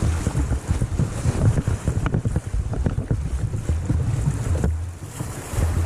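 Wind buffeting the microphone in uneven gusts over rushing river rapids.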